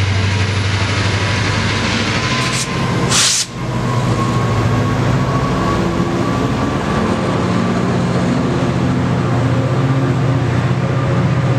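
Metrolink commuter train, led by an MP36PH-3C diesel locomotive, passing close by at speed: a steady, loud rumble of the diesel engine and the bilevel coaches' wheels on the rails. There is a brief rush of noise about three seconds in.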